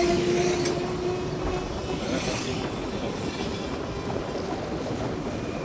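Steady noise of a moving road vehicle with a faint engine hum that fades out.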